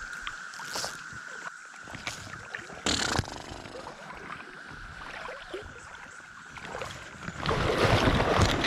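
Steady high drone of a periodical cicada chorus. A short noisy burst comes about three seconds in, and a louder rushing noise rises near the end.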